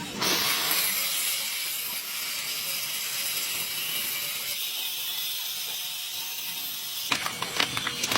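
A steady hiss, strongest in the high pitches, that starts suddenly and cuts off about seven seconds in, followed by a few sharp clicks.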